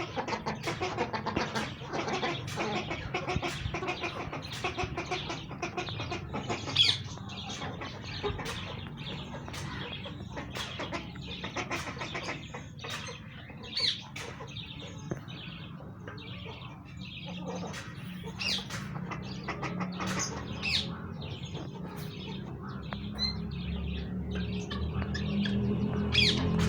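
A flock of guinea fowl and turkeys calling and clucking, with many short calls and a few sharp high-pitched cries. A steady low hum runs underneath and grows louder near the end.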